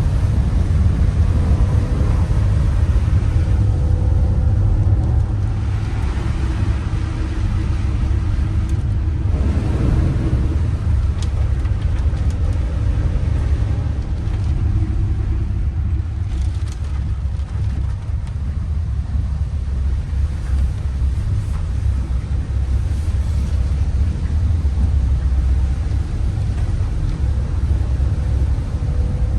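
Steady low rumble of a vehicle driving, with no sharp events.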